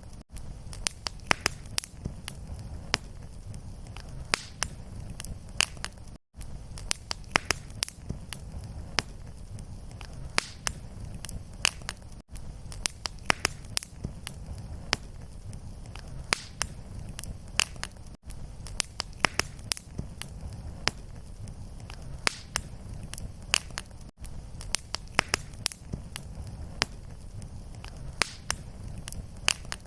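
Fireplace fire crackling: frequent sharp pops and snaps over a steady low rumble of flame. It is a short recording looped about every six seconds, with a brief gap at each repeat.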